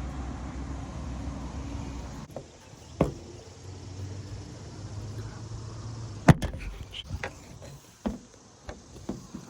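Car engine running with a steady low hum that cuts off about two seconds in; then a scatter of clicks and knocks, the loudest about six seconds in.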